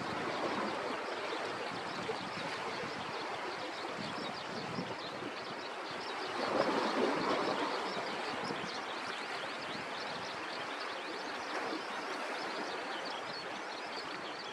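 Sea waves washing steadily on the shore, with one louder wash about six to eight seconds in.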